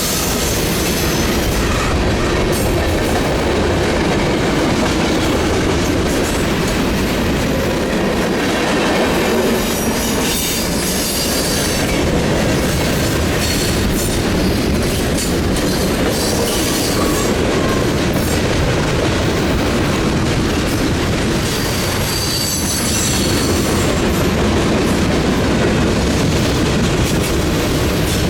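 Freight train cars rolling past at close range: a steady rumble of steel wheels on rail with clicking over the rail joints and intermittent high wheel squeal.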